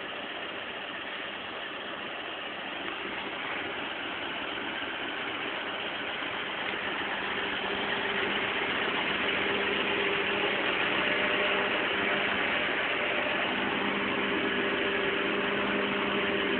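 An old truck's engine idling steadily, growing gradually louder over the first half or so.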